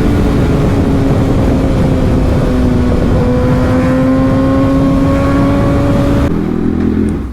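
Motorcycle engine pulling steadily at speed under wind rush, its pitch rising slowly as it gains speed. About six seconds in it cuts abruptly to a lower, rougher engine sound.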